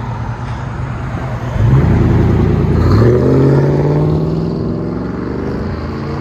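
Ford 5.4L Triton V8 running through a true dual exhaust with Flowmaster Outlaw mufflers. It runs low and steady, then about a second and a half in the throttle opens and the exhaust note rises as the truck accelerates, levelling off and easing after a couple of seconds.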